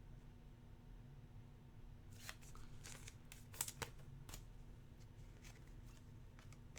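Faint handling of basketball trading cards: a few soft clicks and papery slides of cards being moved, between about two and four and a half seconds in, over a low steady hum.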